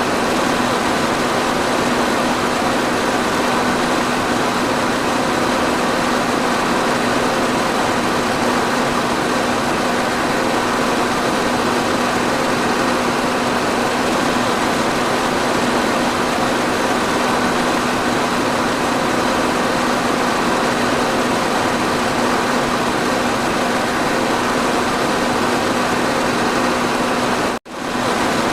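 Electric fan running steadily: an even rush of air with a steady motor hum underneath. The sound cuts out for an instant near the end and comes straight back.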